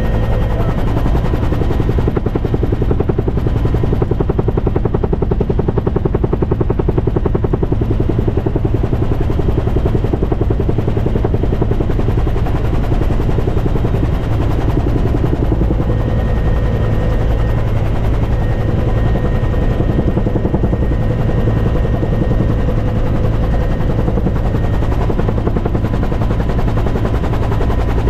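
Helicopter running close by, its rotor giving a steady, rapid chop with a faint steady whine over it.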